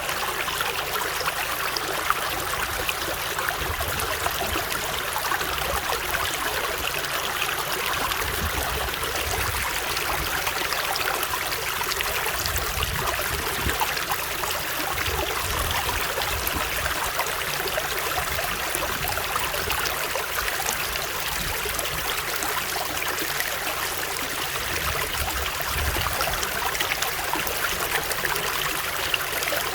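Running water of a stream flowing steadily, an even rushing with a low rumble underneath.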